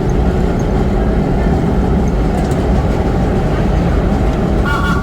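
Vintage R1-R9 subway train running, heard from inside the car as a loud, steady rumble, with a brief high tone just before the end.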